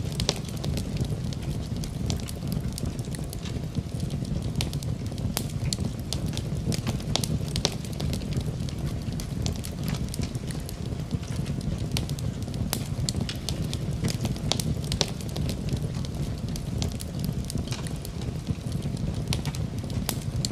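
Fire in a fireplace crackling: frequent irregular sharp pops over a steady low rumble of flames.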